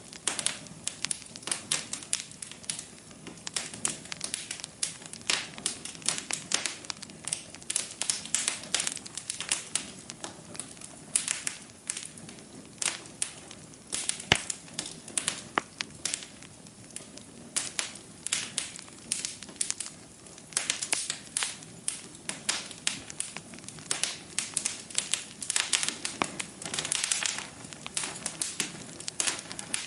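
Wood fire crackling in a fireplace, with dense, irregular pops and snaps. One sharp, louder pop comes about halfway through.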